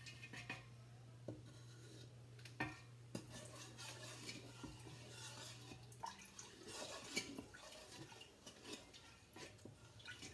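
Spoon quietly stirring and scraping in a saucepan of sauce, with a few light clinks, over a steady low hum that stops about six seconds in.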